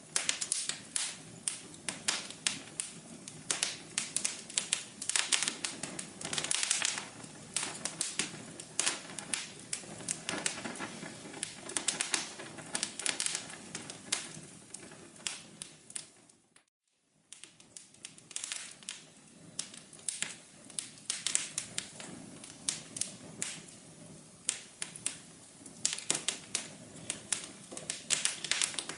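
Wood fire crackling, with a dense run of irregular pops and snaps over a soft hiss. About two-thirds of the way through it fades out for a moment, then starts again abruptly, like a loop restarting.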